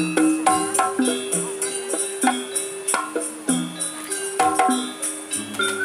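Live jaranan music: struck metal keyed instruments ring out a running melody over drum strokes, with a steady jingling rattle. A wavering high tone comes in near the end.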